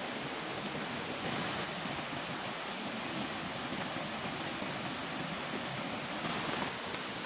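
Steady, even rushing noise of the outdoors, with a brief rustle about a second and a half in and again near the end.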